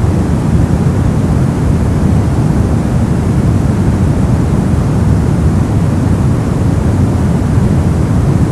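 Synthetic brown noise: a steady, deep rumbling hiss with most of its energy in the lows, unchanging throughout.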